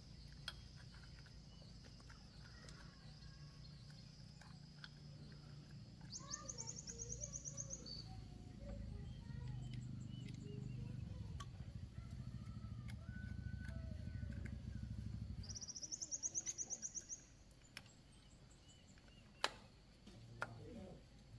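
Birds chirping, with a high, rapid trill heard twice, over a low engine rumble that stops about two-thirds of the way through; a sharp click near the end.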